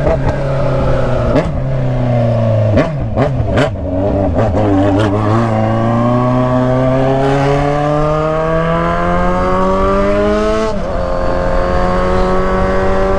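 Kawasaki Z900RS inline-four running through a stainless-steel 4-into-1 header and loud straight-through 'canela seca' muffler. A few sharp cracks come about three seconds in, then the engine pulls up steadily in pitch through a gear for about five seconds. It drops suddenly at the shift near the end and settles into steady running.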